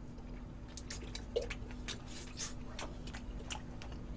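A person chewing and biting food close to the microphone: faint wet, squishy mouth sounds with many small clicks scattered throughout.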